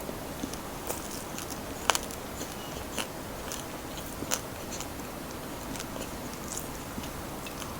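Crunchy bites and chewing of crispy fried chicken, with irregular crisp crackles; the loudest sharp crunch comes about two seconds in.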